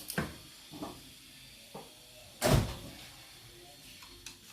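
Knocks from parts and tools being handled during engine assembly: a few light knocks, then one loud clunk about two and a half seconds in.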